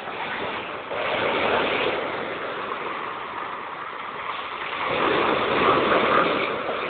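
Big sea waves breaking and rushing in, a noisy surge that swells about a second in and again, louder, from about five seconds in.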